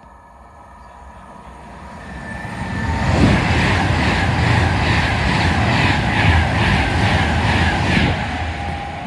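Avanti West Coast Class 390 Pendolino electric train passing a platform at speed. It builds up from about two seconds in and is loud for around five seconds, with a regular clatter of carriage bogies going by about two to three times a second, then fades near the end.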